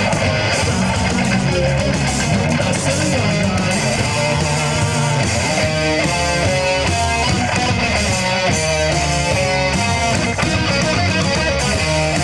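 Rock band playing live, an instrumental passage led by electric guitar over bass. From about six seconds in, a lead guitar line of quick stepped notes repeats a short figure.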